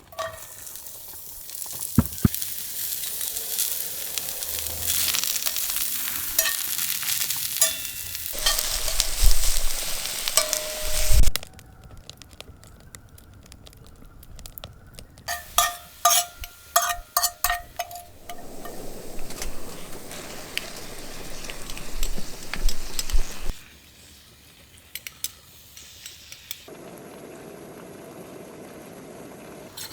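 Wood fire crackling and hissing, with sharp pops, in several stretches that change abruptly.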